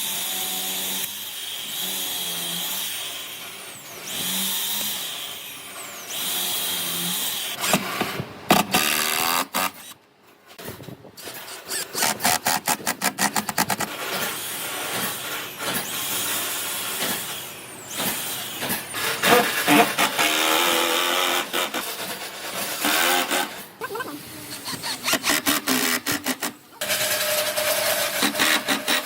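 Woodworking tools on wood: a power tool runs in short spells with a steady whine, then quick repeated strokes follow in rapid rhythmic runs.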